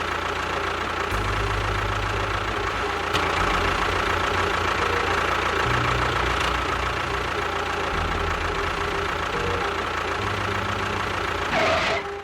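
Engine running steadily, a continuous mechanical drone with a pulsing, knocking low end; it cuts off abruptly near the end.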